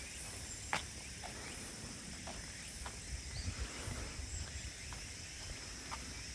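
Steady high-pitched chorus of crickets and other insects, with a few irregular footfalls on the path, the clearest about three-quarters of a second in.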